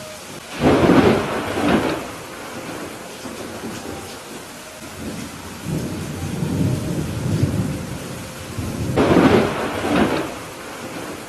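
Steady rain with thunder: a loud clap about half a second in, a low rolling rumble in the middle, and a second loud clap about nine seconds in.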